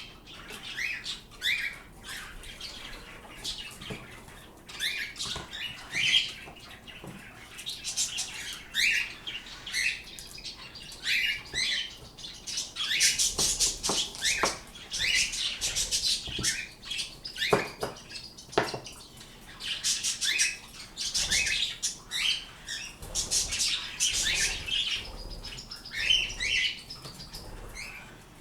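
Pet birds chirping, with many short, high calls one after another throughout.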